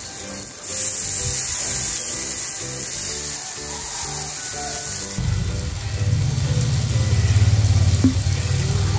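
Skewered tiger prawns in masala marinade sizzling as they fry in oil on a tawa, with a steady hiss. The sound changes abruptly about five seconds in, turning louder and deeper.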